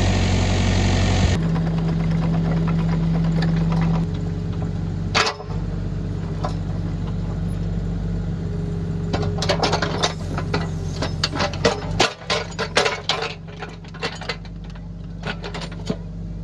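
The replacement diesel engine of a Kubota KX161-3 excavator running steadily, its speed dropping about a second in. Through the second half come a string of sharp clicks and knocks.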